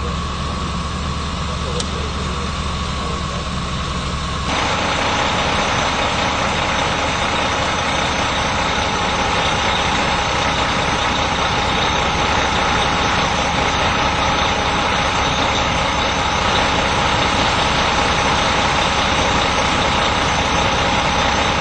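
Steady vehicle engine idling under a constant noise, which steps up in loudness about four and a half seconds in and then holds.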